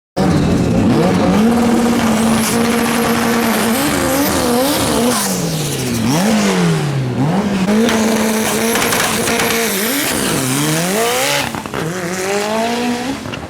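Drag race car's engine held at high revs, then revved down and up again several times, with tyres squealing over it, typical of a burnout before a run.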